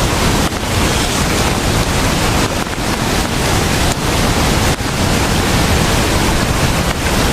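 Strong wind buffeting the microphone: a loud, steady rush with an uneven low rumble and brief dips in the gusts.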